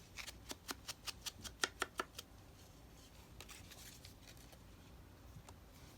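A paper edge being roughed up: a quick run of about a dozen sharp scrapes, about five a second, over the first two seconds, then a soft paper rustle.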